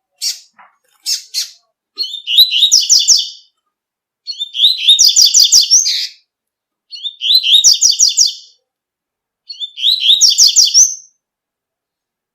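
Double-collared seedeater (coleiro) singing its tui-tui song: a few short chips, then four phrases of rapid repeated high notes, each lasting one to two seconds with short pauses between.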